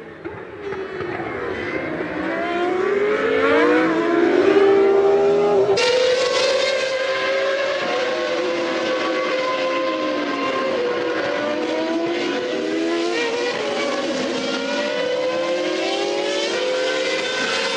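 Formula One race-car engines at racing speed, several at once, their high-pitched notes climbing and dropping again and again through gear changes and passes. The sound changes abruptly about six seconds in.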